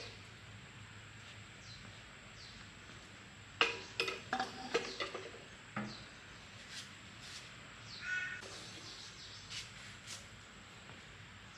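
A quick run of sharp clinks and knocks from about three and a half to six seconds in, some with a brief ring, with faint bird calls around them.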